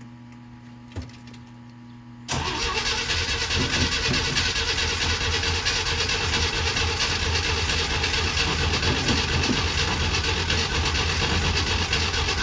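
1969 Jeep Willys CJ5 engine being cranked over on its starter, starting suddenly about two seconds in and running about ten seconds before cutting off near the end. This is a hard cold start after seven months of sitting, with the carburettor primed and the pedal held to the floor.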